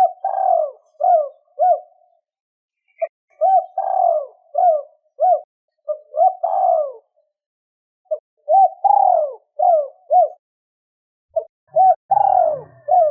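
Spotted dove cooing: four phrases, each a few short coos around a longer note that falls in pitch, repeated every three to four seconds.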